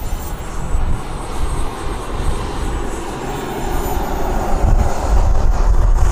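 Model turbine jet engine running with a high whine that drifts slightly in pitch over a broad rushing noise, getting louder about four seconds in. Gusty wind rumbles on the microphone.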